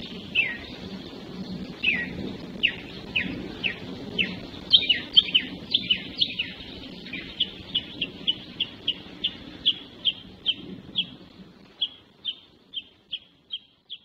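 A songbird repeating short, clear down-slurred notes, about one a second at first, then quickening to roughly three a second. A low, steady outdoor background noise lies under it and fades away near the end.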